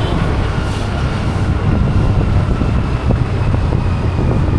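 Vehicle engine running with a steady low rumble, with some wind noise on the microphone.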